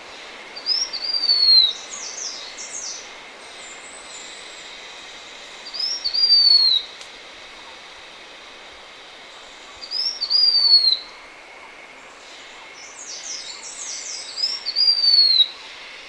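Blue-winged minla singing four phrases a few seconds apart. Each phrase is a short rising note followed by a longer, high whistle that slides down. Quick high chirping notes cluster around the first and last phrases, over a faint steady hiss.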